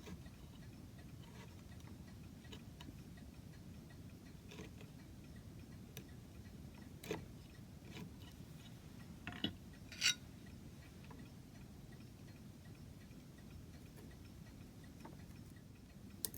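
Hand chisel paring the remains of an old ramin dowel out of a drilled hole: scattered small clicks and scrapes, with a few sharper knocks about seven and ten seconds in.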